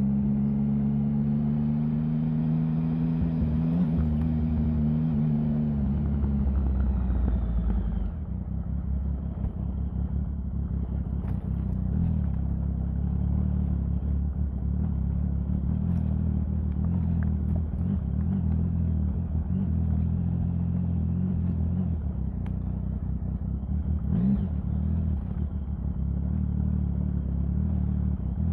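Triumph Sprint 1050's three-cylinder engine running. For the first several seconds its note holds high, rising slightly and then falling away. About eight seconds in it drops to a steady low running, with a brief rev near the end.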